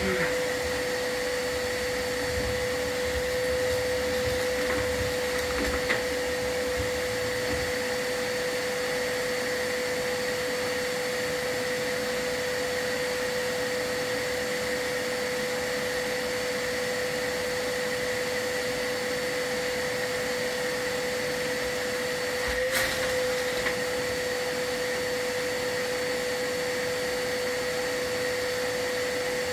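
Vacuum motor running with a steady whine, of the kind a chimney sweep keeps running during a fireplace sweep to catch soot. A sharp knock about 23 seconds in, and a small click about six seconds in.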